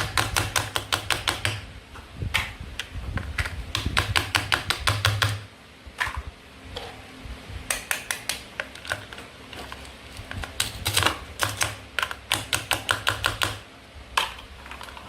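Toy play food being cut with a toy knife: quick runs of sharp clicks and clacks, several a second, broken by short pauses.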